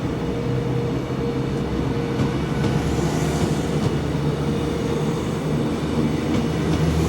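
Train running along the track: a continuous rumble of wheels on rail with steady humming tones, the hiss swelling and fading now and then.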